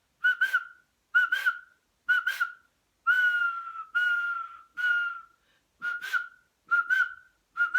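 A person whistling a birdsong imitation: pairs of short chirps, three longer notes that fall slightly in the middle, then more short chirps, with breath audible in the whistle.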